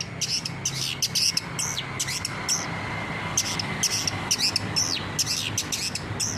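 Long-tailed shrike (cendet) singing a fast, rapid string of sharp, high chirps and squawky notes, several a second. A low steady hum runs underneath.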